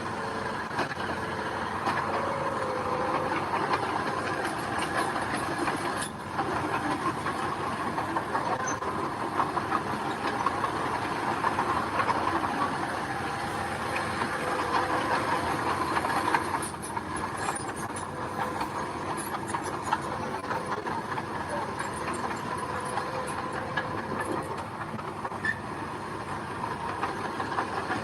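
Diesel engine of a tracked mini bulldozer running under load, with steady clanking of the tracks and the rattle and scrape of gravel being pushed.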